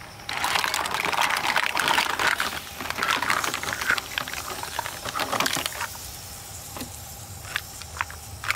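Water pouring and splashing for about five and a half seconds, then stopping, followed by a few light clicks and knocks. Insects chirr steadily underneath.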